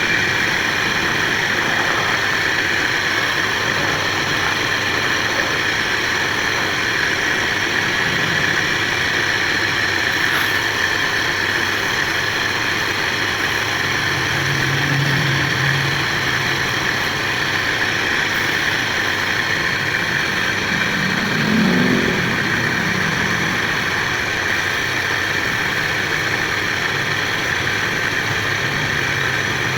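Motor-driven wood lathe running steadily with a constant hum and whine. There is a brief louder low sound about three-quarters of the way through.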